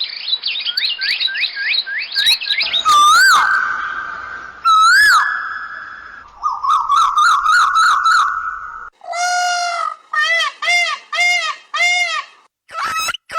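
A string of different bird calls one after another. First a quick run of rising whistled notes, then two loud wavering whistles, then a fast trill, then five drawn-out harsh calls, and near the end a rapid series of short calls.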